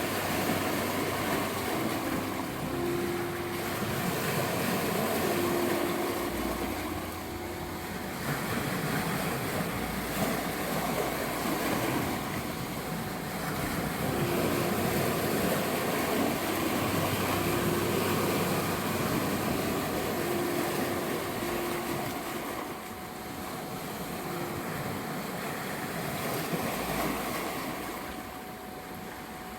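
Sea waves washing onto a shore, swelling and easing, under soft meditation music: a steady 741 Hz tone held throughout and a few soft sustained notes with a low drone.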